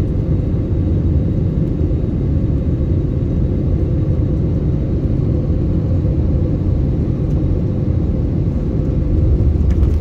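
Steady low rumble of a landing airliner, heard from inside the passenger cabin, with a few faint ticks near the end.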